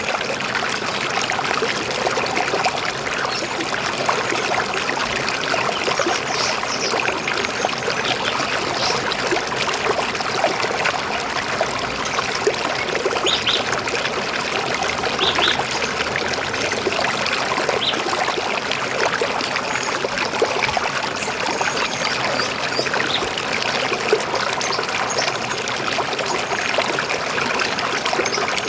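River water flowing steadily with a trickling, gurgling rush, and a few brief high bird chirps now and then.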